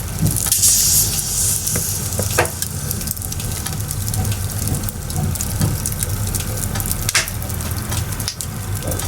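Burning firewood crackling with a steady hiss and scattered sharp pops, and a brief louder hiss about a second in.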